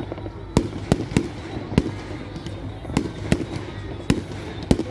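Fireworks exploding overhead: a rapid, irregular series of about nine sharp bangs, several close together, over a steady low rumble.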